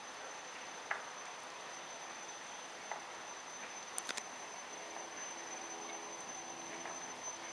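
Faint outdoor background with a steady high-pitched whine and a few sharp clicks, three in quick succession near the middle; a faint low hum comes in during the second half.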